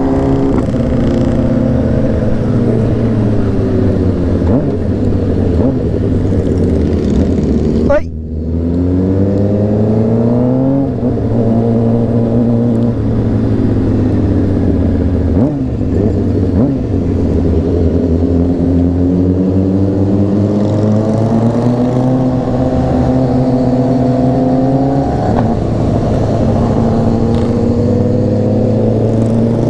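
Honda CBR600RR inline-four engine running at road speed, its pitch rising and falling with throttle and gear changes. About eight seconds in the throttle snaps shut and the sound dips briefly before picking up again.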